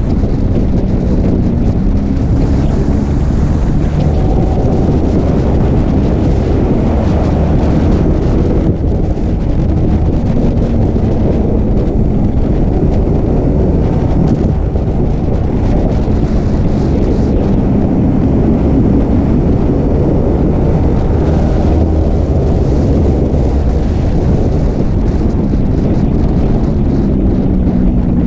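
Yamaha sport motorcycle's engine running at road speed, its note drifting up and down with the throttle, with wind rushing over the microphone.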